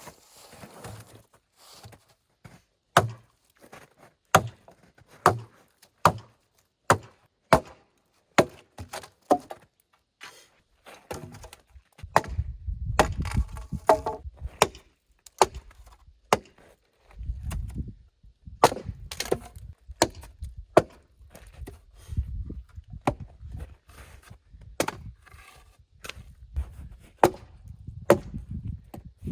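Hatchet chopping firewood: a long series of sharp strikes into wood, roughly one a second, with a low rumble underneath for stretches in the second half.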